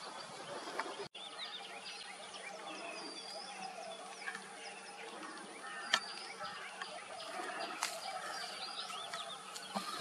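Many birds chirping and calling over one another in short whistled notes, with a few sharp clicks, the loudest about six seconds in.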